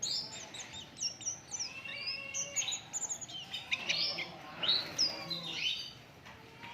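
White-eye (pleci) singing a rapid, high twittering song of short chirps and quick up-and-down whistled notes.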